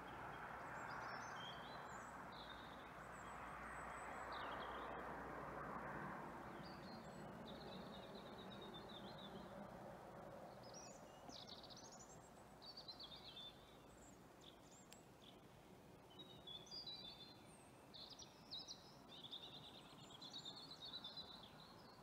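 Songbirds singing faintly: short high chirping phrases scattered through, coming more often in the second half, over a soft outdoor background hush that eases after the first few seconds.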